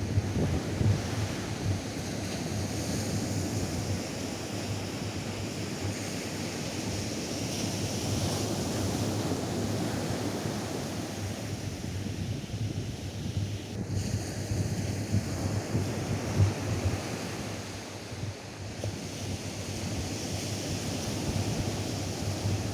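Atlantic Ocean waves breaking and washing up a sandy beach in a steady, swelling and easing surf, with wind buffeting the microphone as a low rumble.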